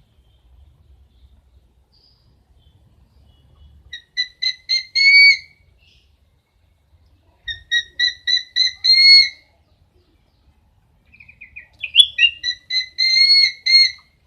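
A bird calling in three bouts of quick, repeated whistled notes. Each bout is about a second and a half long and ends in a longer, drawn-out note. The bouts come at about four, seven and a half, and eleven and a half seconds in.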